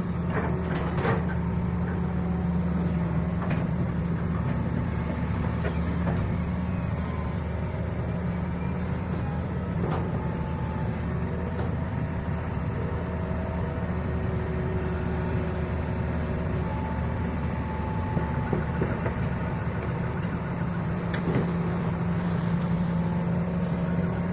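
Heavy diesel engine running steadily with a constant low hum, and a few faint knocks along the way.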